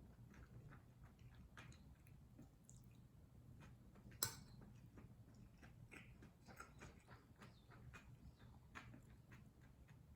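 Faint close-up mouth sounds of someone eating kimchi fried rice: soft chewing with many small wet clicks and smacks, and one sharper click about four seconds in.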